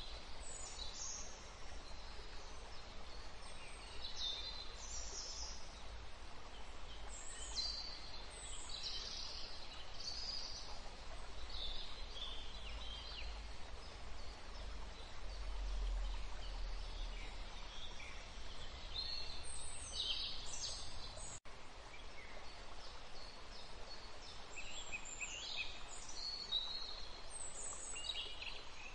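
Birds chirping on and off over a steady low background rumble.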